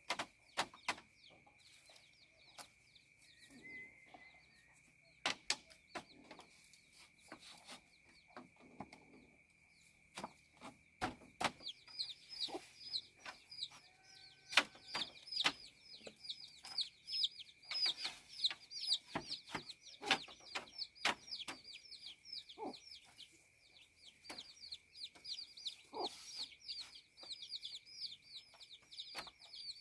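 Chickens clucking, with a dense run of short, high chirps starting about twelve seconds in. Scattered sharp knocks and a steady high whine run underneath.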